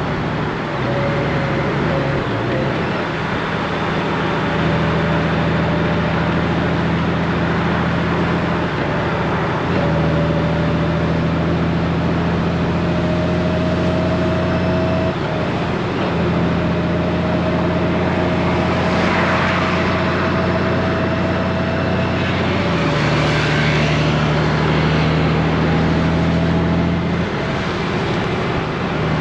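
Honda Gold Wing's flat-six engine running under way in traffic, a steady low hum that steps in pitch a few times, with road noise and a faint rising whine.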